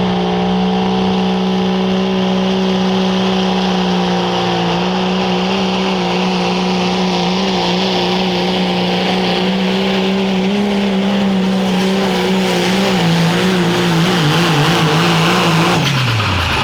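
Engine of a competition pulling vehicle running flat out through a pull, its pitch steady and then wavering over the last few seconds. The pitch falls steeply near the end as the run finishes.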